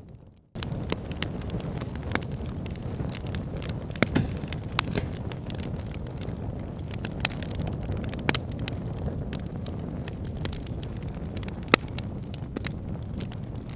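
Bonfire burning: a steady low rumble of flames with frequent sharp pops and crackles from the burning wood. The sound drops out briefly at the very start and comes back about half a second in.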